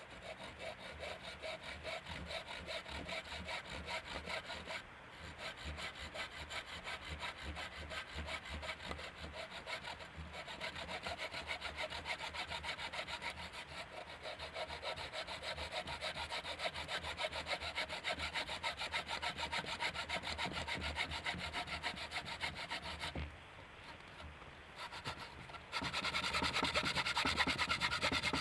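Hand saw cutting through wood with fast, even back-and-forth strokes. It stops briefly about five seconds in and again for a few seconds near the end, then resumes louder and brighter.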